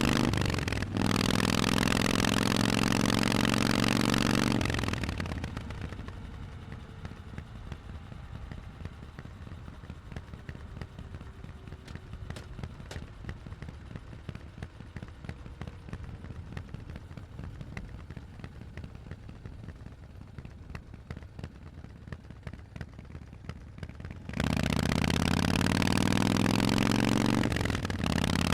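Harley-Davidson Forty-Eight's 1200 cc V-twin through Vance & Hines exhausts, pulling hard with a brief break about a second in, then dropping to a quiet, lumpy low rumble off the throttle for about twenty seconds. About 24 seconds in the throttle opens again and the exhaust comes back loud, with another brief break near the end, like a gear change.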